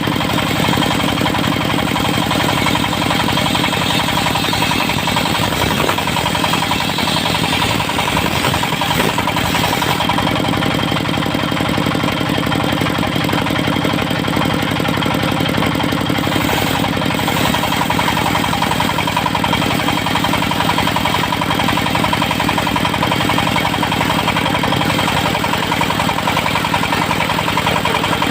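Engine of a portable circular-saw sawmill running steadily at constant speed, with a steady hum and whine.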